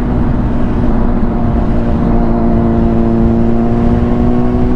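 Honda CBR600RR inline-four engine running at steady road revs, its pitch easing down a little mid-way and picking back up near the end, over wind and road noise.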